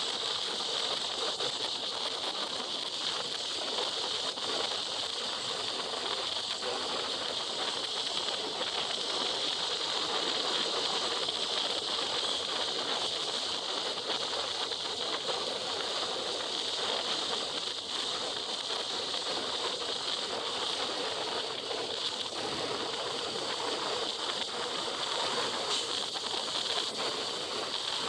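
Steady rushing wind and wet-road hiss on a helmet microphone while riding a motorcycle through rain, unchanging throughout.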